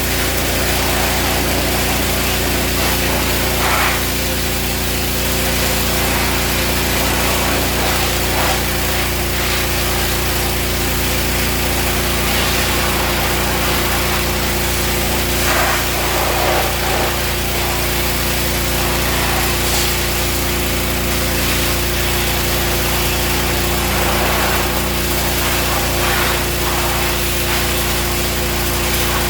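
Small gasoline engine of a pressure washer running steadily at constant speed, with a steady hiss over it.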